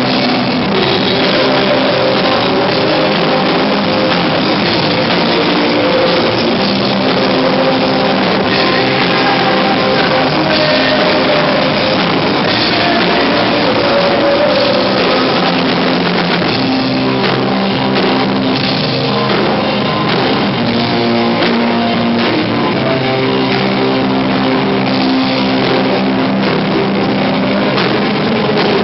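A rock band playing live, loud and unbroken, with guitar and drum kit.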